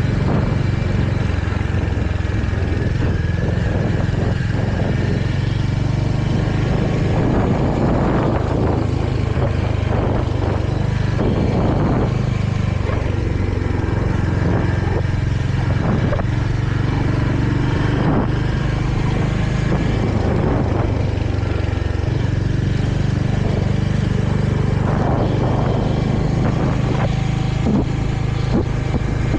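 Royal Enfield Hunter 350's single-cylinder engine running at a steady riding pace, heard from the rider's seat, with wind and road noise over it.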